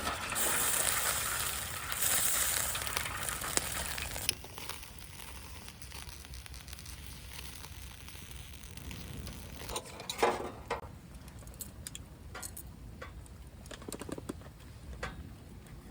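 Campfire burning in a fire pit: a steady hiss for the first four seconds or so, then quieter, with scattered crackles and pops.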